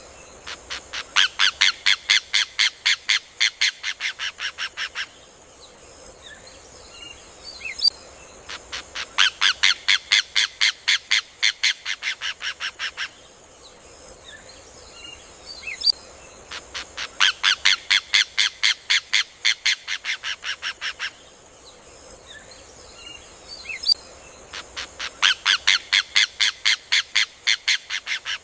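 Rufous hornero (João de Barro) singing: four bouts about eight seconds apart, each a fast run of loud, evenly spaced notes lasting about four seconds that fades toward the end. Faint chirps fall between the bouts over a steady high hiss.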